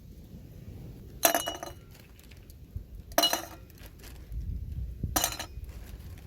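Glass clinking three times, about two seconds apart, each clink sharp with a short ring.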